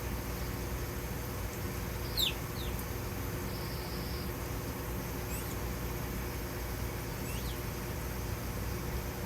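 Small birds calling at the feeders: a few short, high chirps that slide down in pitch, the loudest about two seconds in, and a brief high buzz about four seconds in. A steady low hum runs underneath.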